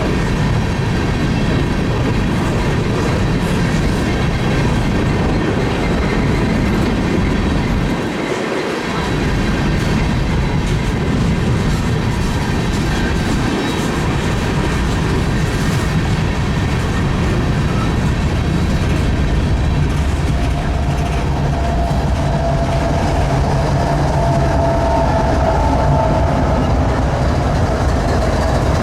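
Freight train rolling past, a steady loud rumble of cars and wheels on the rails, with a wavering squeal rising in the last third.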